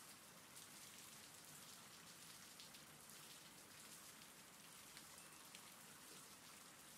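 Faint, steady rain: a recorded rain-sound bed, with light scattered drop ticks.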